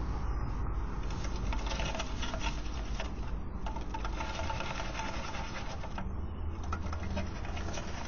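American robin scrabbling with twigs and flapping on a porch ledge, heard as a quick run of light clicks and rustles over a steady low hum from the security camera's microphone. Faint bird calls sound in the middle.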